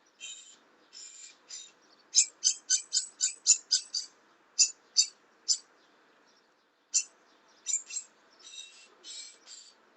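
A bird squawking over and over in short, harsh calls. About two seconds in comes a quick run of about eight sharp calls, about three a second, and after a brief pause the calls carry on more spaced out.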